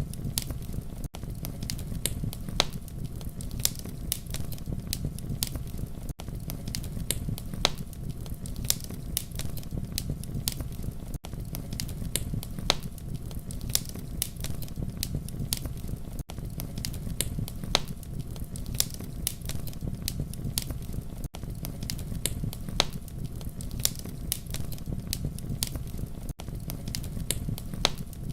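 Campfire crackling steadily: a low, even rumble of flame with sharp pops and snaps scattered several times a second. A brief dropout recurs about every five seconds, as in a short looped recording.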